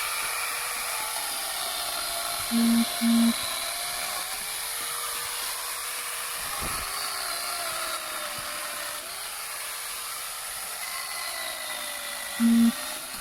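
Angle grinder with a chainsaw attachment running under load, its motor whine dipping in pitch as it bites into the wood and rising again as it frees up. Three short, loud beeps cut through it, two close together about two and a half seconds in and one near the end.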